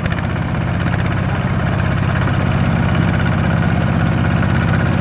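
Tractor diesel engine running steadily with an even, fast pulse.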